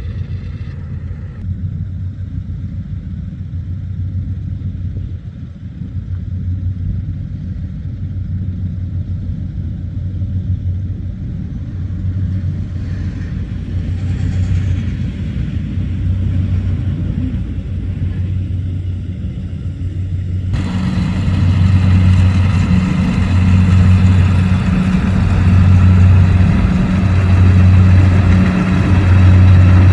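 Rice combine harvester's diesel engine running with a steady, slightly pulsing low hum. About two-thirds of the way in, a wider rushing noise comes in suddenly and the machine gets louder.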